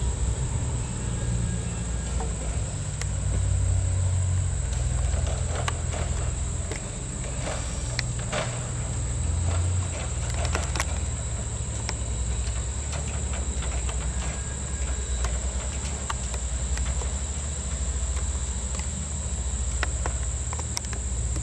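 Strasburg Rail Road wooden passenger coaches rolling slowly on the track: a low rumble with scattered sharp clicks from the wheels and rails, most of them in the middle. A steady high insect buzz runs underneath.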